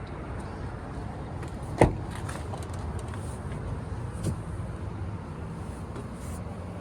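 Steady low rumble around the truck, with one sharp clunk about two seconds in and a lighter knock a couple of seconds later.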